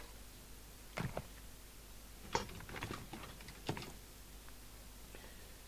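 A few light clicks and knocks of hands working on the CB radio and bench test equipment, in three small groups: about a second in, around two and a half seconds, and near four seconds.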